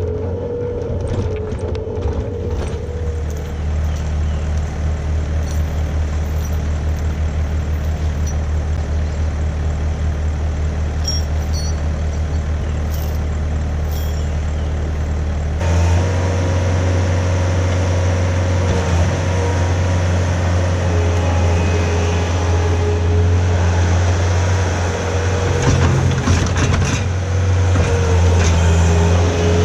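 Skid steer running steadily under work, a deep engine drone with a higher whine over it that wavers a little in pitch. The sound gets suddenly louder about halfway through.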